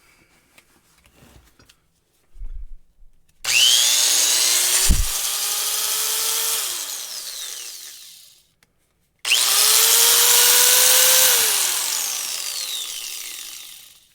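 Warrior 4-1/2 inch angle grinder, 4.3 amp, switched on twice: each time the motor whine rises as it spins up to speed, runs steadily for a few seconds, then falls away as it coasts down after switch-off. A short handling clatter comes before the first start, and a low thump about a second into the first run.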